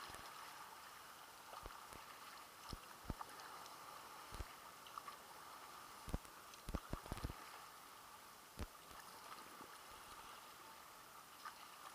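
Faint water lapping and splashing around a paddled kayak, with a dozen soft knocks and splashes, several bunched together about six to seven seconds in.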